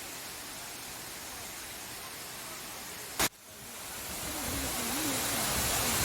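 Steady rushing noise of a waterfall. About three seconds in a sharp click breaks it, and a louder rush of falling water builds up after it.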